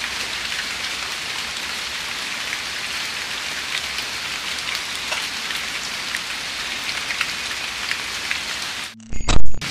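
Light drizzle pattering steadily, with single drops ticking through it. Near the end the sound cuts out for a moment, then a loud low thump.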